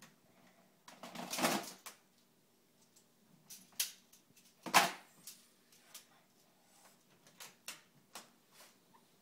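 Magformers plastic magnetic tiles being handled. A rattling shuffle of pieces comes about a second in, then a string of sharp clicks as pieces snap together, the loudest near the middle.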